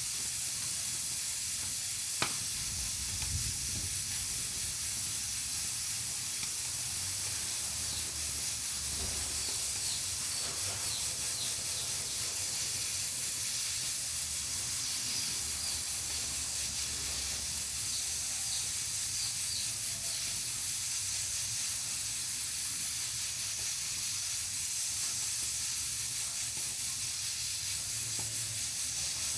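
Pressure cooker on a wood-fired stove hissing steadily as steam escapes, a constant high hiss, with a single sharp click about two seconds in.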